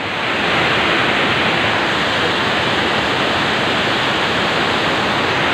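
Large, wide waterfall pouring steadily: a loud, even rush of falling water.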